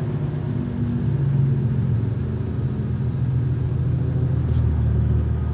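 Muffler-deleted BMW 435i's turbocharged 3.0-litre inline-six (N55) idling steadily with a deep, even exhaust rumble.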